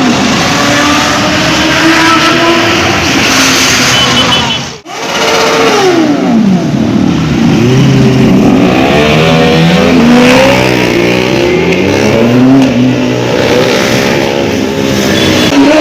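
Several motorcycle engines revving and running at high speed, their pitches overlapping and sweeping up and down, with one falling away sharply just after a brief break about five seconds in.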